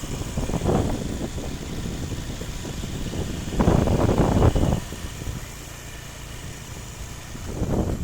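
A vehicle engine running steadily, with louder rushing swells about half a second in and again from about three and a half to five seconds.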